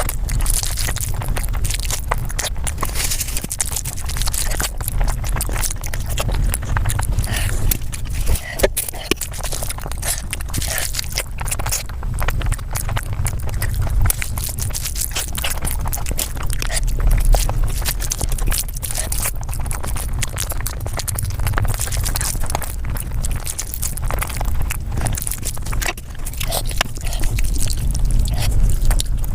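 Mukbang eating sounds sped up about five times: a dense, rapid run of chewing, smacking and clicking crackles over a steady low rumble.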